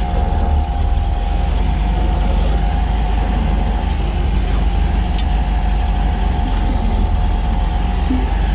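1967 MGB GT's 1.8-litre four-cylinder engine running steadily at low revs, heard from inside the cabin, with a steady whine over the engine note and a single light click about five seconds in.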